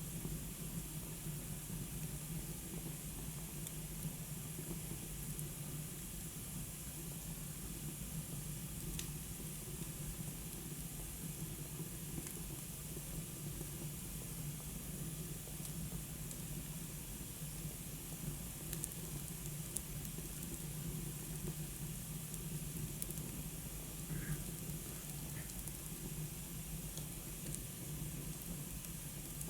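Wood fire burning in a fireplace: a steady hiss of the flames with a few faint, scattered crackles.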